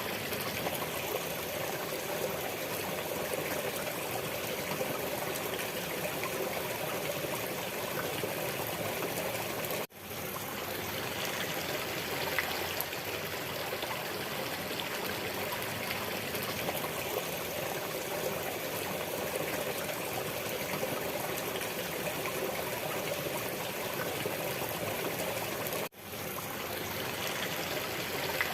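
Steady running water. It drops out abruptly twice, about 16 seconds apart, and fades straight back in, as a looped recording does at its seams.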